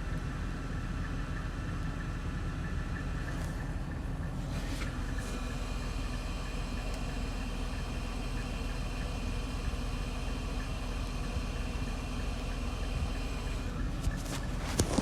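Mercedes-Benz engine idling steadily on a cold start, carrying a new sound that the owner puts down to the engine not yet having warmed up. A couple of brief clicks come near the end.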